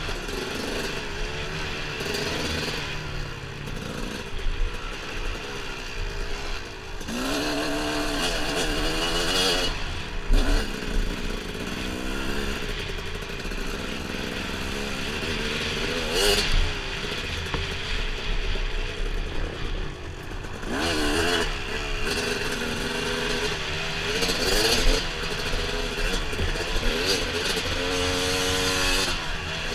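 Dirt bike engine running along a trail, its revs climbing and falling again and again as the throttle is worked, with a few sudden loud knocks.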